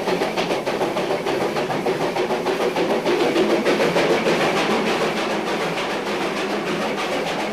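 Virginia and Truckee Railroad train rolling along the track, heard on board: a steady running rumble with continual clicking of wheels on the rails.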